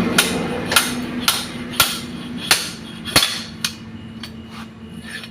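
A hammer striking metal about ten times, roughly every half second, with sharp ringing blows that grow fainter over the last couple of seconds. A steady machine hum fades out in the first second or so.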